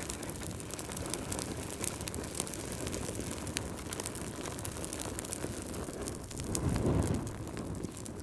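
Wood fire crackling over a steady low roar, with many small sharp pops. The roar swells briefly about seven seconds in.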